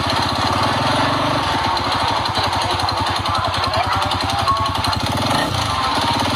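Habal-habal motorcycle taxi's engine running steadily with a rapid, even firing pulse; its note shifts briefly about five seconds in.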